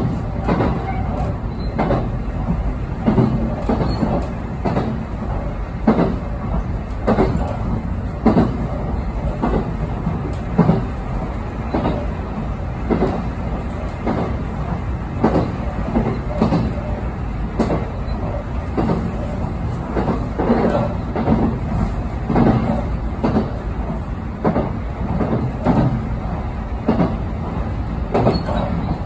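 Electric train of the JR Kakogawa Line running along the track, heard from inside the car at its front end: a steady rumble of wheels on rail, broken by frequent, irregular clattering knocks.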